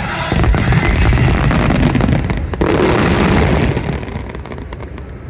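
Fireworks finale barrage: many shells bursting in rapid succession, a dense run of booms and crackles that thins out and dies down over the last second or so.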